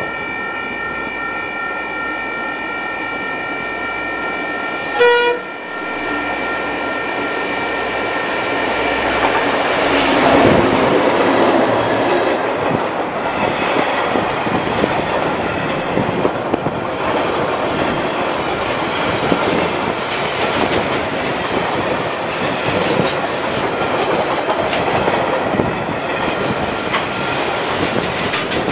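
Diesel freight train approaching and passing close by in a concrete rail trench. A steady high chord-like tone sounds for the first several seconds, with a short loud blast about five seconds in; from about ten seconds in the locomotive's engine comes loudly past, followed by the steady rumble and clickety-clack of log and container wagons over the rails.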